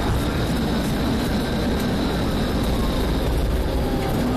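Police cruiser running at high speed in a pursuit: a steady, loud rush of engine, wind and road noise.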